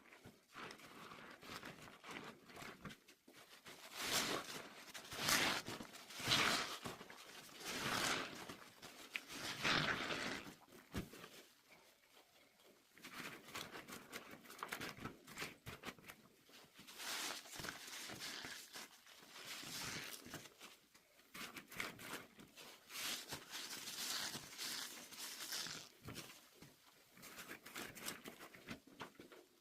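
Soapy suds in hot water fizzing and crackling in irregular swells, loudest between about four and eleven seconds in.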